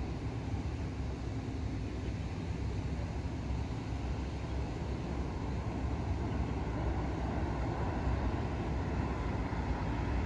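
Rumble of a distant train approaching down the line, growing slowly louder.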